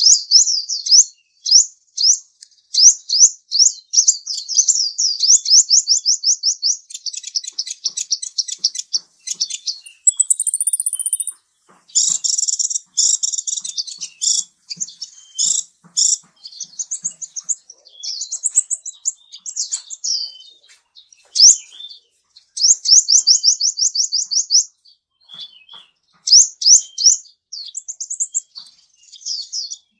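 Bird song: a long run of rapid high trills and chirps, with short pauses between phrases.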